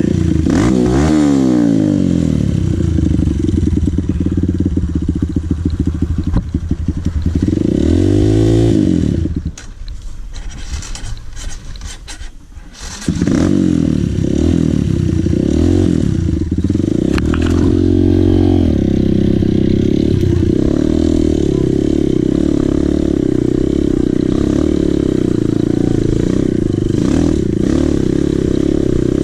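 Dirt bike engine running under throttle, revving up and back down several times, dropping quieter for a few seconds near the middle before running steadily loud again.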